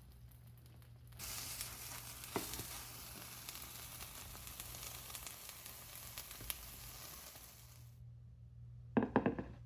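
Frittata mixture frying in a hot pan, sizzling and crackling. The sizzle starts suddenly about a second in and stops just before the end, followed by a quick cluster of knocks.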